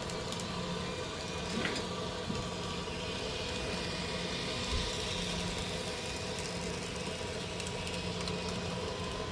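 Train locomotive engine running steadily at idle, a low hum with a few faint clicks over it.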